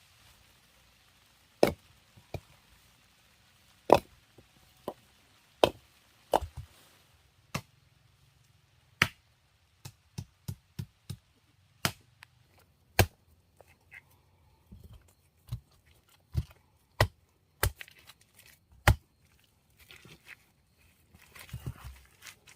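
Wood being chopped: a series of sharp strikes at irregular intervals, about twenty in all, some coming in quick groups of two or three.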